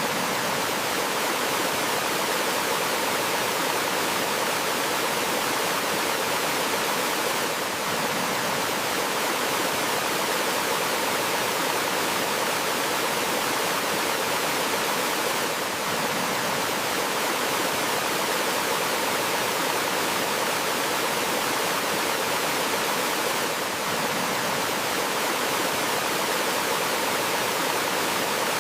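Water of a small forest waterfall or stream rushing steadily over rocks, an even hiss-like wash with no birdsong, dipping slightly in level about every eight seconds.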